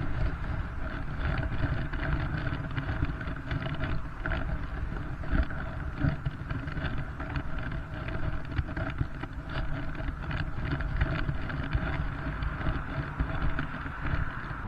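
Steady rumbling background noise with a faint steady hum and scattered light clicks and taps.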